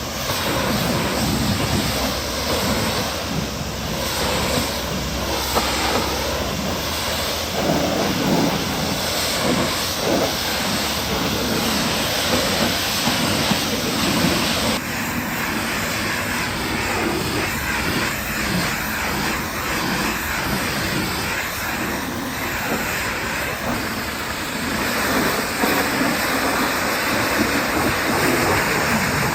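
Pressure washer spraying water against a truck, a steady loud hiss of the jet, its sound changing abruptly about halfway through.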